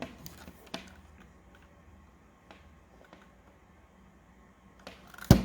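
Handling noise as the floodlight is turned over in the hands: a few light clicks and taps, then one louder knock near the end.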